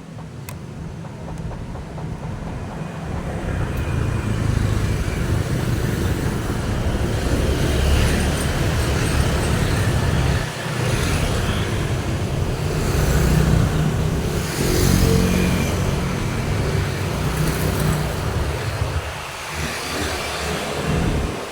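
Road traffic: a continuous stream of motor vehicles passing. The sound builds over the first few seconds, dips briefly twice, and peaks as a vehicle's engine goes by in the middle.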